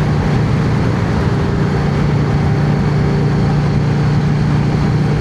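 Yamaha XVS650's air-cooled V-twin engine running steadily under way, a constant low engine note with no change in revs.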